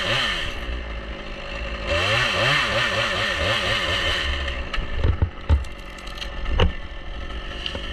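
Stihl chainsaw revving in pulses, its engine speed rising and falling about three times a second, in two bursts: one ending about half a second in, a longer one from about two to four seconds. It then idles while several sharp knocks sound.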